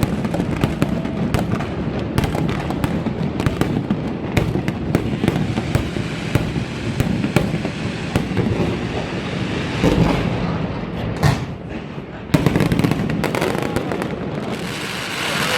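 New Year's Eve fireworks going off in a dense, continuous barrage of bangs and crackles, with heavier bursts about ten and twelve and a half seconds in.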